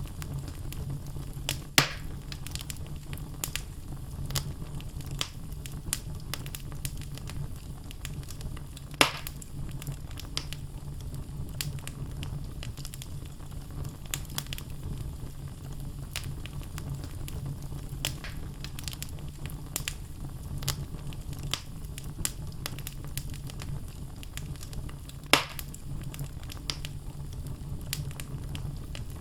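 Wood logs burning in a fireplace, crackling: a steady run of small crackles over a low rumble, with three louder sharp pops, one near the start, one about a third of the way in, and one near the end.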